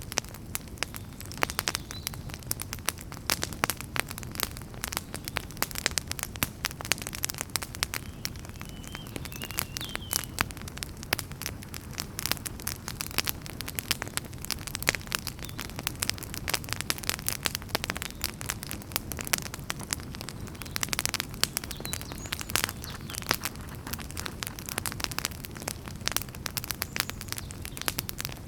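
Wood fire burning in a fireplace: constant, irregular crackling and popping over a low, steady rumble of flames, with a few faint high whistles.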